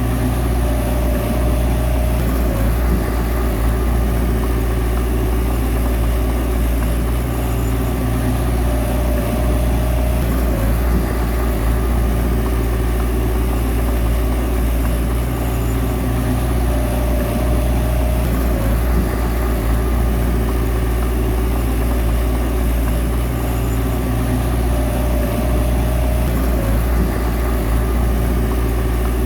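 Bulldozer's diesel engine running steadily, with a brief higher tone that comes back about every eight seconds.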